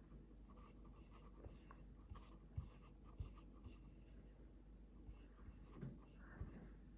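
Near silence with faint, scattered scratchy rustling and a few soft taps.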